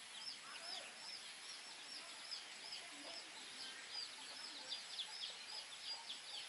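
Birds chirping: a steady run of short, high, arched notes, about three or four a second, with a few fainter lower calls.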